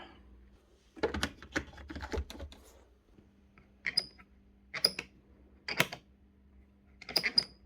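Knocks and rattles of handling, then four sharp clicks with a short metallic ring, spaced about a second apart, over a faint steady hum.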